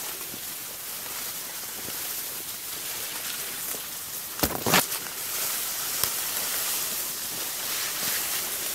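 Steady outdoor hiss, like rain on leaves or running water, with a quick cluster of sharp snaps or knocks about halfway through.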